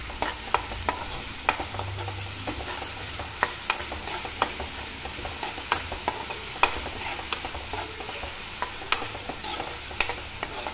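Chopped onions, green chillies and ginger-garlic paste sizzling in oil in a metal kadai, while a steel spoon stirs them with frequent irregular clicks and scrapes against the pan.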